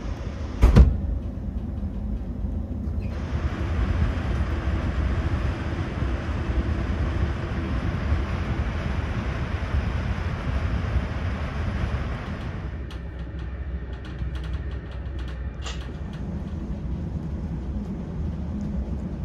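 Steady low rumble of a ČD InterJet passenger coach running at speed on the rails, heard from inside the cabin. A sharp knock comes about a second in, a rushing hiss rides over the rumble from about three to about thirteen seconds in, and light creaks and ticks from the coach interior follow near the end.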